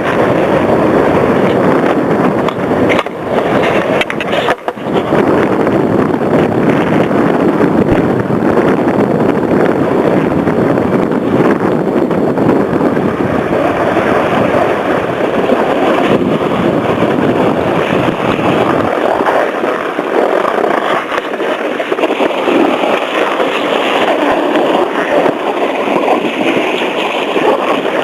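Steady scraping hiss of a rider sliding down a packed-snow cat track, mixed with wind on the microphone; the low rumble eases after about two-thirds of the way through.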